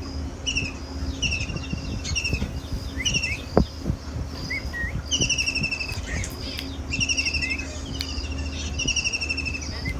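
Birds calling over and over: short, rapidly pulsed trills that fall slightly in pitch, roughly one a second, some overlapping. A steady low hum runs underneath, and a sharp knock sounds once about three and a half seconds in.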